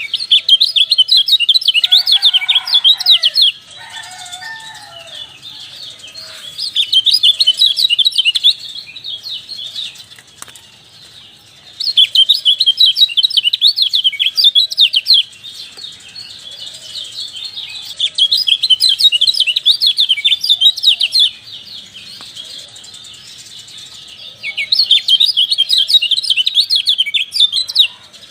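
Kecial songbird singing in five bursts of rapid, high chirping twitter, each a few seconds long, with short quieter pauses between: a lure recording meant to provoke other kecial into singing.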